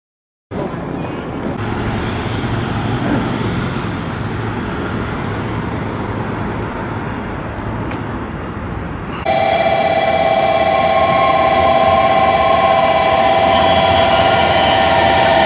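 Train in motion: a steady rumble of the ride, then after an abrupt change about nine seconds in, a louder steady whine of several tones over the running noise, a few of them dipping slightly in pitch near the end.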